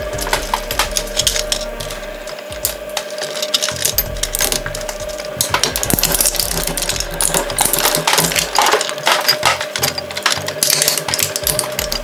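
Shredder running with a steady hum while it chews up a die-cast toy airport stair truck, metal and plastic pieces cracking, snapping and rattling in quick, irregular clicks.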